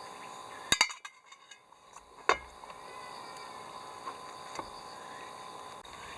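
Hard objects clinking: two quick clinks together about a second in, and a single louder clink a little over two seconds in. Lighter ticks follow, over a steady chorus of insects.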